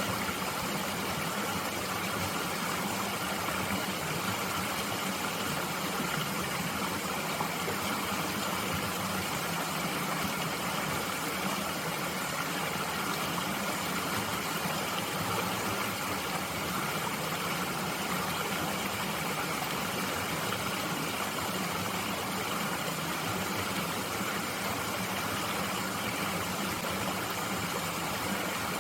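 Mountain stream flowing steadily, an unbroken rush of water with no separate splashes.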